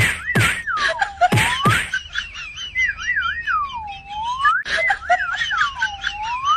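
A warbling whistle that swoops down and back up in pitch over and over, with a few sharp clicks and quick falling glides in the first two seconds.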